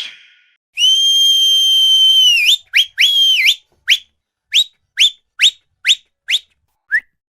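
Whistle tones: one long held whistle note that dips and flicks up at its end, a shorter held note, then a run of short upward-sweeping whistle chirps about two a second.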